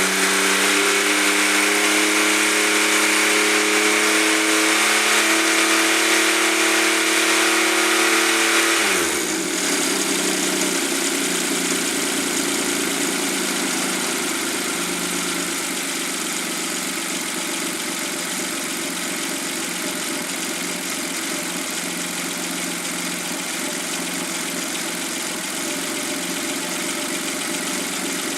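Suzuki K6A three-cylinder engine held at raised revs, drops sharply back to idle about nine seconds in, then idles steadily.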